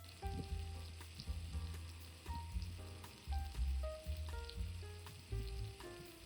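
Food sizzling in hot fat, a steady crackling hiss that starts and stops abruptly, heard over soft background music with plucked or keyboard notes and a pulsing bass.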